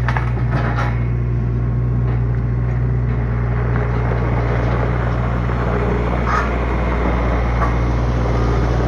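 Skid steer's engine running steadily at an even speed.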